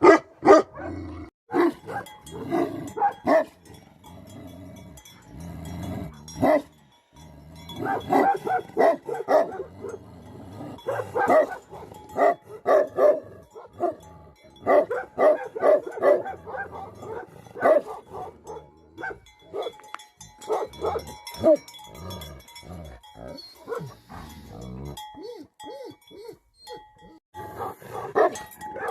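Tibetan mastiffs barking in repeated bursts of short, sharp barks, with growling.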